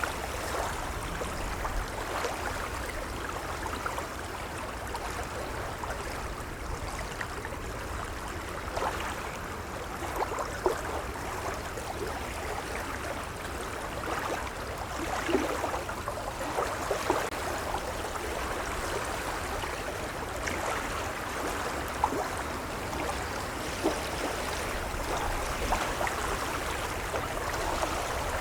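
Gentle waves lapping: a steady wash of water broken by many small, scattered splashes.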